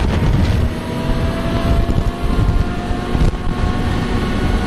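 Car driving at speed, with wind buffeting the microphone over steady engine and road rumble and a faint whine that rises slowly.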